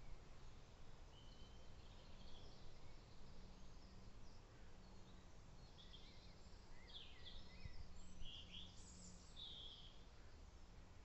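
Faint ambience: a steady low rumble with scattered short, high bird chirps, most of them past the middle.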